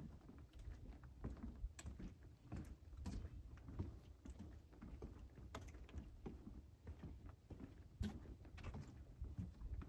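Footsteps walking along a trail: a string of irregular soft knocks and scuffs over a low rumble.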